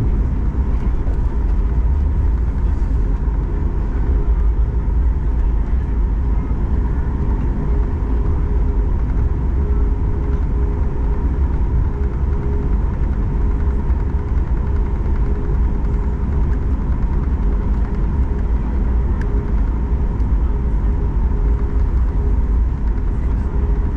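Steady cabin rumble inside a Boeing 737 MAX 8-200 as it taxis, its CFM LEAP-1B engines running at an even level with a constant hum of two tones over the low roar.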